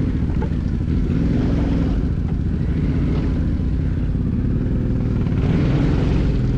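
Off-road motorcycle engine running at low, fairly steady revs, getting a little louder near the end.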